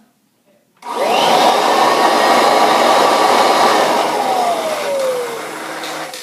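1969 Kirby Classic upright vacuum cleaner switched on: its motor comes up to speed with a quick rising whine and runs loudly for about three seconds. Then it is switched off and winds down, the whine falling in pitch and fading.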